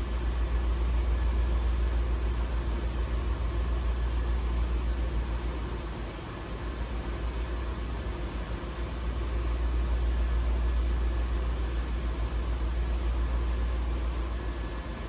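2002 Lexus LS430's 4.3-litre V8 idling after a cold start: a steady low rumble that eases for a couple of seconds midway, then comes back up.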